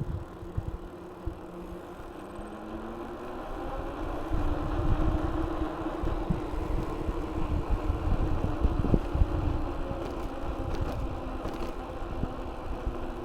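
Ride noise from a mountain bike recorded on a DJI Action 2: wind rumbling on the microphone with a steady hum that grows louder about four seconds in.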